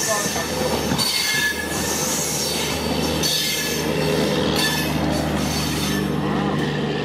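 Passenger train coaches rolling past at speed: steady wheel-on-rail noise, with thin high wheel-squeal tones coming and going.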